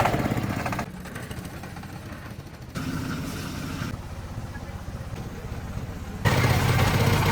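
Small engine-driven machine running steadily, in several short clips that cut abruptly from one to the next.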